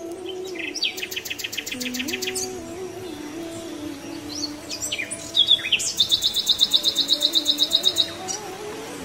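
Birds chirping in rapid high trills over soft background music, once about a second in and again, louder, from about five to eight seconds in.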